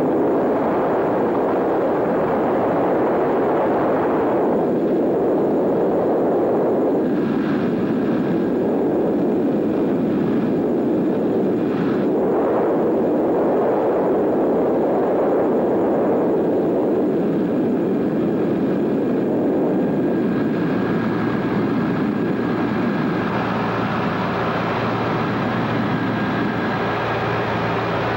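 Piston aircraft engines of a PBY-5A Canso water bomber running, a loud rushing drone that swells and eases, with a steadier engine hum coming through near the end.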